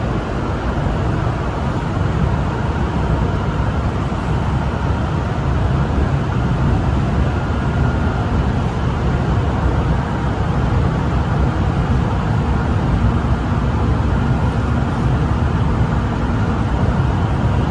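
Steady running noise of a Shanghai Metro Line 9 train heard from inside the carriage: a constant low rumble and rush with a faint steady whine over it, unchanging throughout.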